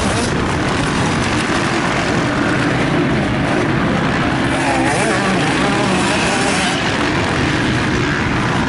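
Motocross bikes running on the track, their engines revving up and down under a steady wash of noise.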